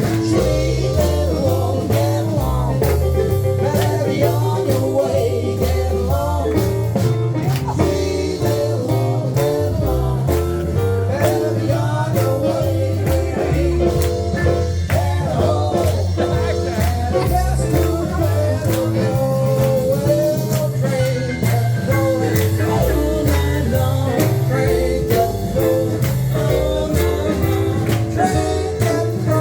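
Live band playing a rock and roll number: guitar over a stepping bass line and drums keeping a steady, driving beat.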